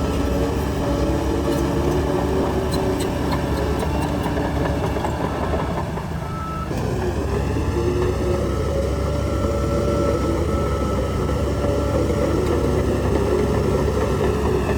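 Heavy diesel earthmoving machinery running steadily at a landfill site. The engine eases briefly about six seconds in, then picks up again, and a thin steady high tone comes in over it.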